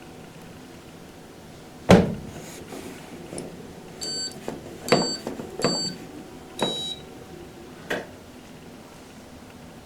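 Washing machine control panel giving four short electronic beeps as its buttons are pressed, with clicks among them. A single sharp knock about two seconds in is the loudest sound.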